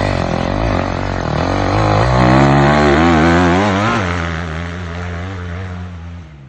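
Kawasaki KX250 dirt bike engine, its pitch rising and falling with the throttle, loudest a couple of seconds in, then fading away near the end.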